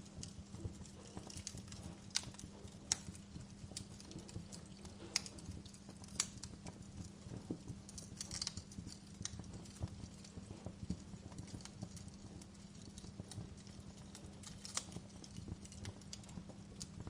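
Wood fire crackling in a fireplace: irregular sharp pops and snaps, some louder than the rest, over a steady low rumble.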